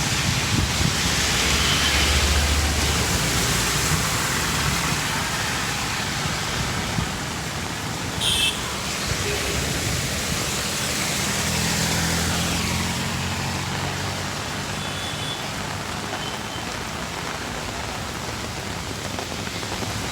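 Steady rain falling, with motor vehicles passing on the wet road, their engines coming and going. A brief sharp sound cuts through about eight seconds in.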